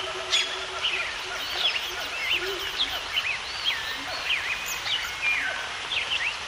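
Several birds chirping and whistling, many quick rising and falling notes overlapping, over a steady background hiss.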